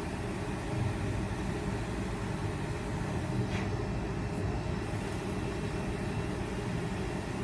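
Refrigerator's replacement 110-volt compressor and fan motor running steadily just after start-up, with a low hum.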